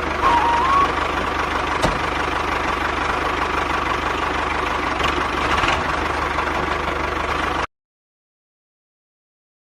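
A small machine running steadily with an even, engine-like chugging rhythm and a steady whine. It cuts off abruptly to silence about seven and a half seconds in.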